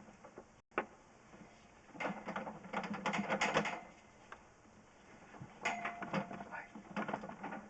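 Mechanical clatter and scraping of a drain inspection camera's push cable being tugged and worked, in two spells, while the camera head is stuck in the drain line.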